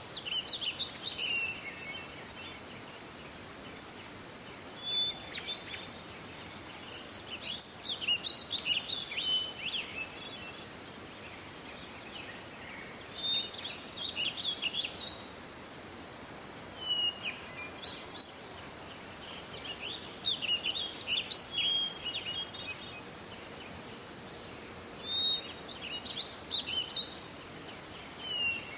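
A songbird singing bursts of quick, high chirping phrases every few seconds, over a steady background hiss.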